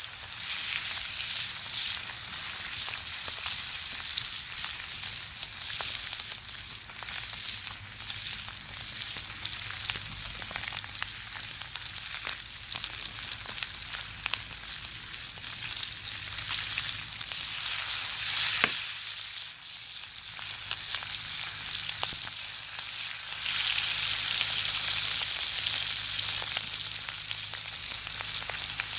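Bacon sizzling as it fries, a steady hiss dotted with frequent small pops and crackles, growing louder near the end.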